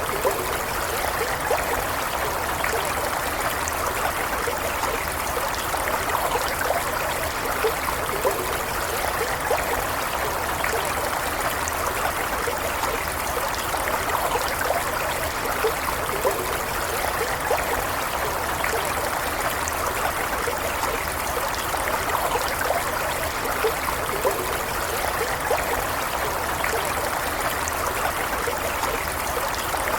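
A stream of running water, flowing and trickling steadily.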